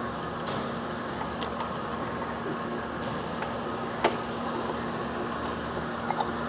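Cincinnati universal cylindrical grinder running under power, a steady machine hum with a constant tone. A few light ticks and one sharper click about four seconds in.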